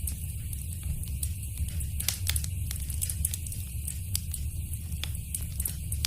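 Wood fire burning in a fireplace, with a steady low rumble and irregular sharp crackles and pops several times a second.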